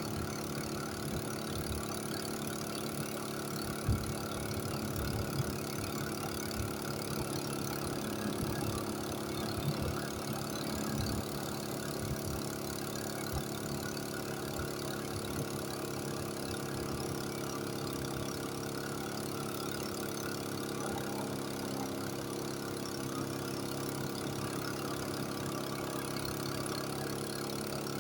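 An engine running steadily at an even speed, with a few low knocks in the first half.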